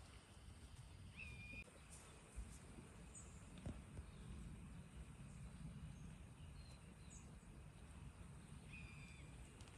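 Faint outdoor ambience: a low steady rumble with a few short bird chirps, the same two-note call heard about a second in and again near the end.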